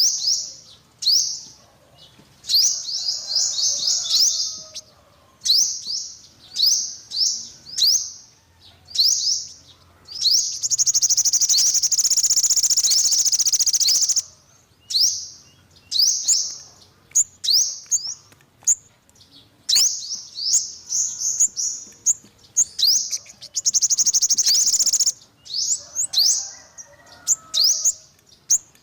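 Yellow-bellied sunbird calling: a run of quick, high, down-slurred chirps, broken twice by a long, rapid, buzzy trill lasting a few seconds, once near the middle and again about two-thirds of the way through.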